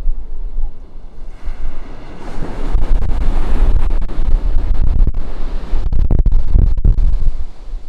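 Ocean surf breaking and washing up a beach, a wave's hiss swelling about two seconds in and easing off, with wind buffeting the camera microphone as a constant rumble and gusts.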